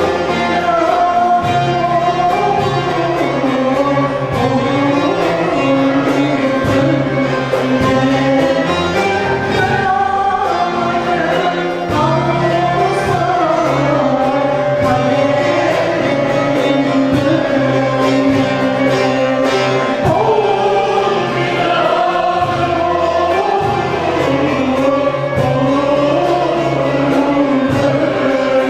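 Turkish folk music choir singing with instrumental accompaniment and a steady beat.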